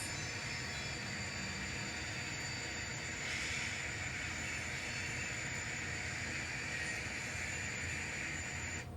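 Sound-equipped N scale diesel locomotive's onboard speaker playing a steady diesel engine sound as it crawls through worn switches. The sound cuts out right at the end as the locomotive shorts out on a bad switch.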